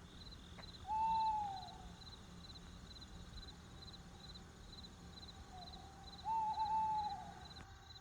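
An owl hooting twice: a short arched hoot about a second in, then a longer hoot with a wavering start near the end. Under it runs a faint high chirp that repeats about twice a second.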